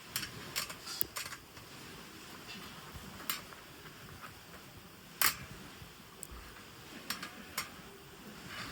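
Scattered sharp clicks and light knocks, about eight of them at irregular spacing and the loudest about five seconds in, over a steady faint hiss.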